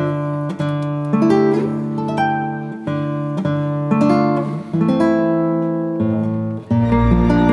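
Background music: acoustic guitar picking notes and chords that ring and fade, a new one every half second to second. Near the end it gives way to a fuller, sustained passage with a deep bass.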